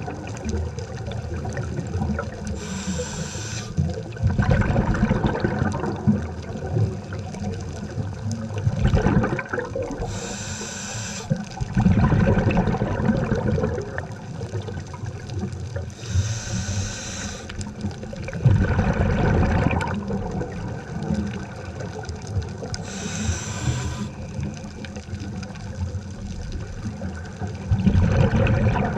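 Scuba diver breathing through a regulator underwater: a short hiss of each inhalation about every six to seven seconds, each followed by a low rumble of exhaled bubbles.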